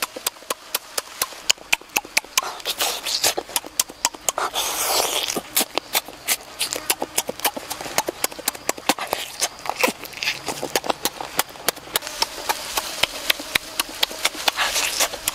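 A child chewing and smacking his lips while eating cooked chicken wings close to the microphone: a continuous run of wet mouth clicks, several a second.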